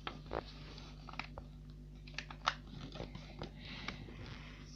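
A sheet of paper being folded and creased by hand: scattered light crackles and clicks, with a soft rustle of the paper near the end.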